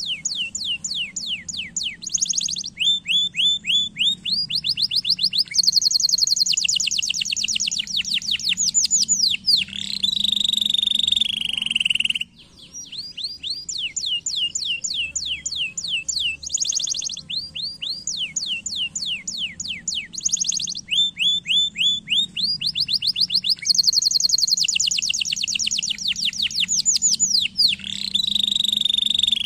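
Domestic canary singing a long song of rapid trills, each a fast run of repeated notes at a different pitch, with a lower rolling trill closing each phrase. The song breaks off about twelve seconds in and starts over.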